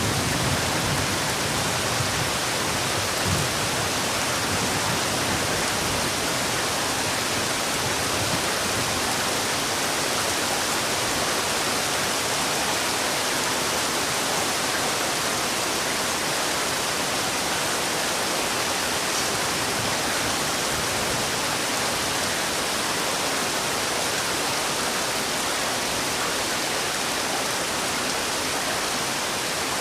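Heavy rain falling, a steady, even hiss with no breaks, and a few brief low rumbles in the first few seconds.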